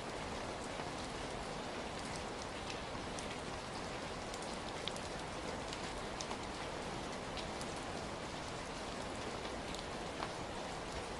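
Steady rainfall: an even hiss of rain with many separate drops ticking sharply here and there.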